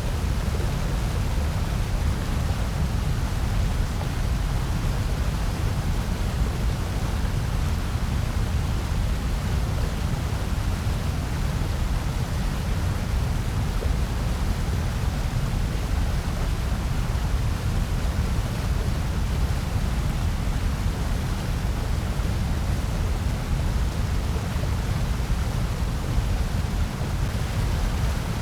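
Continuous electronically generated noise of the white-noise kind, steady and unchanging, with most of its weight in a deep low rumble beneath an even hiss.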